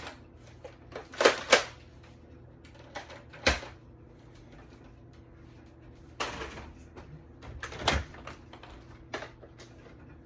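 Scattered knocks and clatters, irregularly spaced: a close pair about a second in, a single sharp one at about three and a half seconds, and a few more from about six seconds on.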